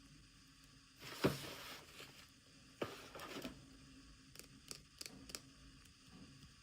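Toy packaging being opened by hand: a rustling tear about a second in and another near three seconds, each with a sharp click, then a few light clicks and taps.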